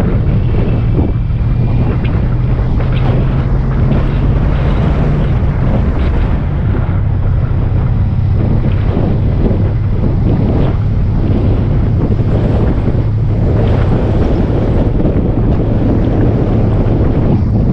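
Motorcycle engine running steadily while riding, under heavy wind rushing over the microphone.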